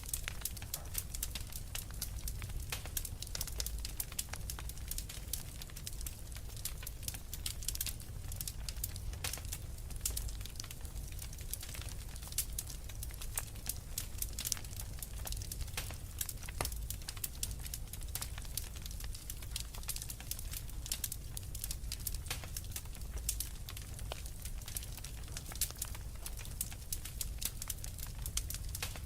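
Wood fire burning in a fireplace: dense, irregular crackles and pops over a low, steady rumble of flame.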